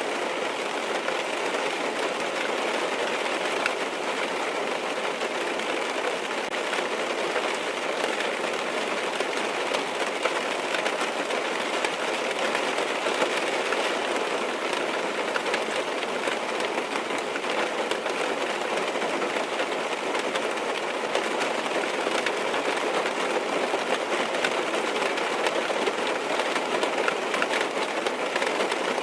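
Steady rain drumming on a car's roof and glass, heard from inside the car as a dense, even patter of drops.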